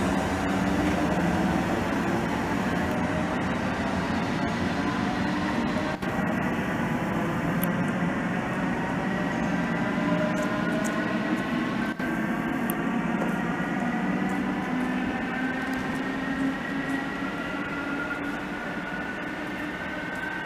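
SNCB AM80 electric multiple unit's chopper-controlled traction motors whining as the train accelerates, several tones climbing slowly and steadily in pitch.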